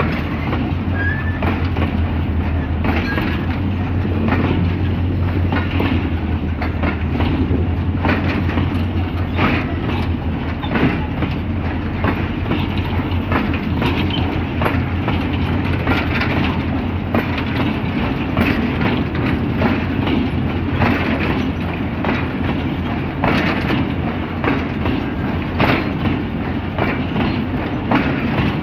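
Loaded freight wagons of a goods train rolling past close by at a fair speed: a steady low rumble with irregular clacks of the wheels over the rail joints.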